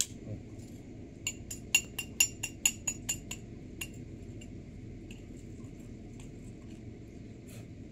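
Light metal-on-metal clinks, about a dozen in quick succession over some two seconds, each with a brief ringing tone, over a steady low background rumble.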